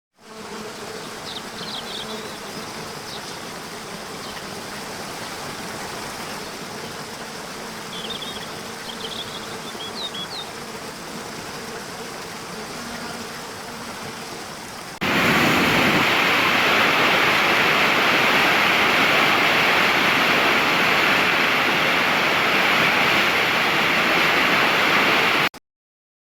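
Flowing water running steadily with a few short high chirps over it. About 15 seconds in, an abrupt cut brings in much louder, fuller rushing water, which stops suddenly near the end.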